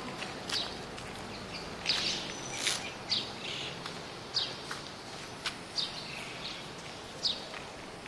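Small birds chirping outdoors: short, sharp, downward-sliding chirps repeated about once or twice a second, over a faint steady background noise.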